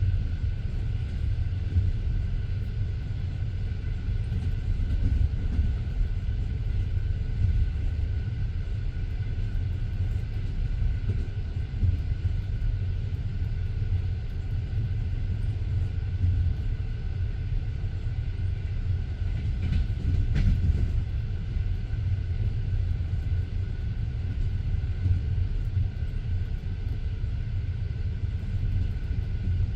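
Passenger train wheels running on the rails, heard from inside the moving carriage: a steady low rumble with the clatter of the wheels, and a short sharper noise about twenty seconds in.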